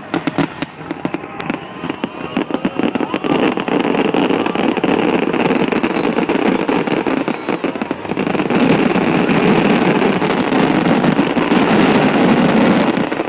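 Fireworks going off in a dense, continuous stream of crackling pops, growing louder and fuller about eight seconds in.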